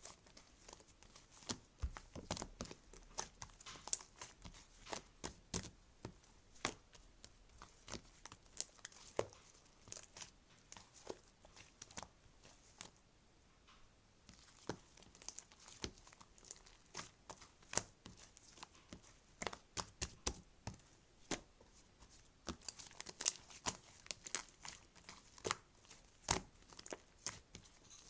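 Crinkling and crackling of packaging handled close by, a dense run of small irregular crackles that eases off briefly about halfway through.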